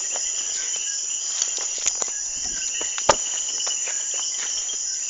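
Insects chirring steadily, with a few sharp clicks, the loudest about three seconds in.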